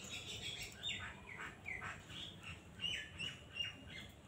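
Birds chirping: a run of short, quick chirps, several of them falling in pitch, over faint background noise.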